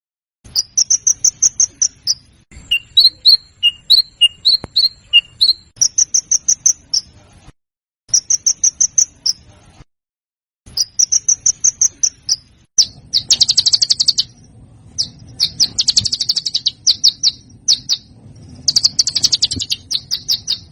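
Small songbird singing rapid, high trilled phrases, each a second or two long and separated by short silent gaps, turning to louder, harsher buzzing rattles about halfway through. This is a masteran tutor recording, used to teach caged competition songbirds new song.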